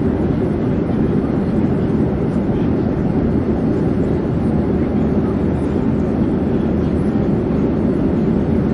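Airplane in flight: a steady, even rumbling noise, strongest in the low range, with no change in pitch or level.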